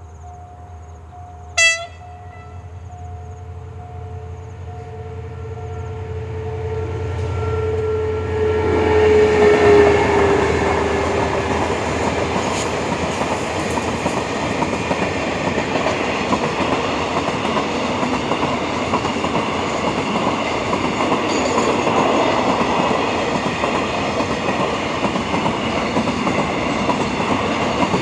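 State Railway of Thailand CSR diesel-electric locomotive approaching and passing with a freight train, a brief sharp blast of its horn about two seconds in and a tone that drops in pitch as it goes by. The freight wagons then keep clattering steadily over the rail joints, with a level-crossing warning signal sounding at the start.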